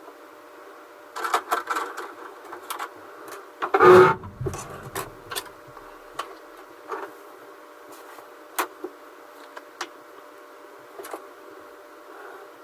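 Hard 3D-printed PLA planks being handled and slotted together on a bench: scattered sharp clicks and taps, with one heavier knock about four seconds in, over a steady hum.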